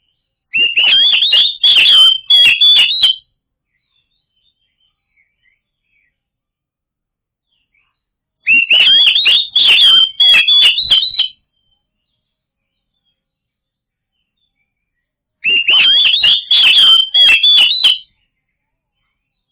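Oriental magpie-robin (kacer) song: the same phrase of rapid, high whistled notes mixed with harsh clicking notes, about three seconds long, sung three times with several seconds of dead silence between.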